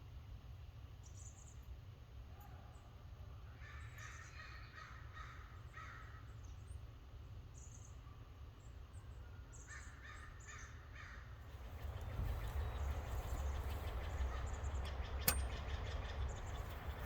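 Crows cawing in two bouts, over a steady low rumble. About twelve seconds in, a louder, even noise rises, with one sharp click shortly before the end.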